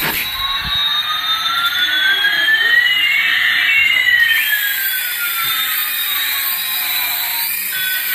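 Electronic jet-engine sound effect from a toy airliner: a hiss with one whine slowly rising in pitch while another slowly falls, the two crossing about three seconds in.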